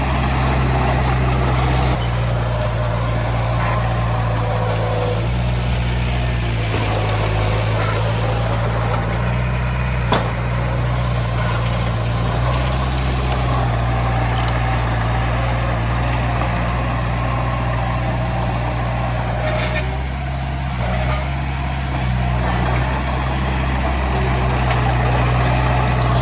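Heavy diesel earthmoving machinery running steadily, its low engine drone shifting in load a few times. A single sharp click comes about ten seconds in.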